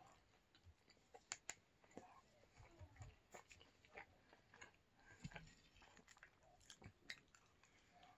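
Faint close-up chewing of pepperoni pizza, heard as scattered soft clicks and small crunches of the mouth.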